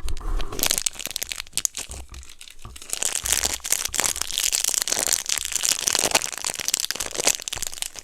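Plastic packaging being crinkled and crushed in the hands: a dense, irregular crackling that thickens in the second half.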